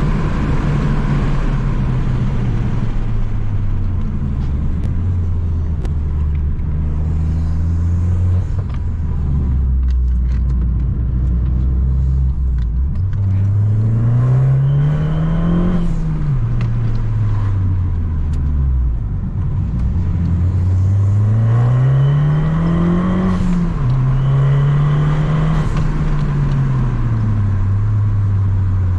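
Abarth 595 Competizione's turbocharged 1.4 four-cylinder running through a full 60 mm aftermarket exhaust, holding a low steady drone, then twice climbing in revs over a couple of seconds and dropping back.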